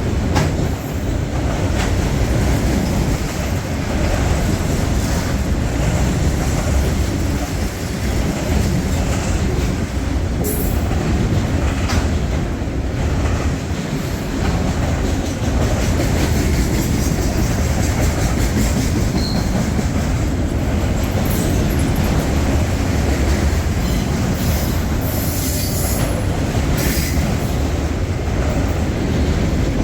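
Freight train rolling past at close range, a steady heavy rumble of cars on the rails with wheels clicking over joints and now and then squealing.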